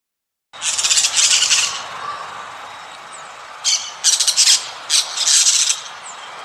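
An animal calling in loud, harsh bursts: one long call about half a second in, then a run of shorter calls from about three and a half seconds.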